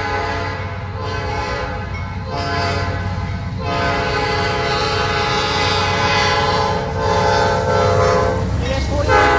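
Diesel locomotive air horn sounding several blasts, the last one long, over the rumble of the passing train; the horn's pitch bends near the end as the locomotive goes by.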